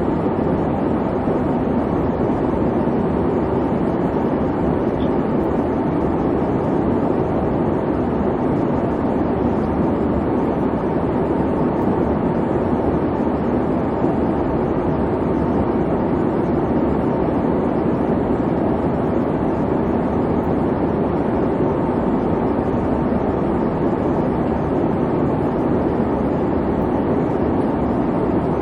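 Airplane cabin noise: a steady, even rumble of engine and airflow, low and constant throughout.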